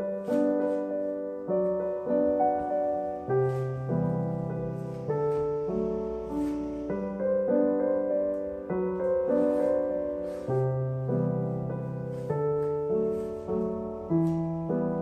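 Soft background piano music: a slow melody over sustained chords, with notes struck about every half second.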